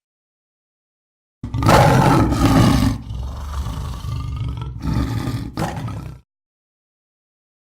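Tiger roaring: one roar starts about a second and a half in, is loudest for its first second and a half, then carries on more quietly and stops about six seconds in.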